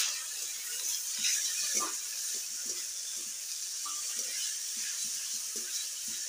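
Fish liver pieces sizzling in hot oil in a metal kadhai: a steady hiss, loudest at the very start and then settling, with a metal spatula scraping and clicking against the pan as the pieces are stirred.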